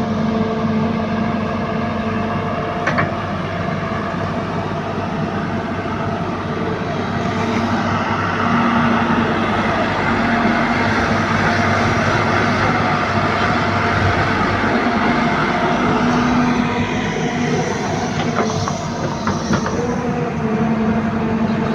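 Hyundai 150-class crawler excavator's diesel engine running steadily under working load while digging and loading mud. It gets a little louder in the middle, with a few short knocks near the start and near the end.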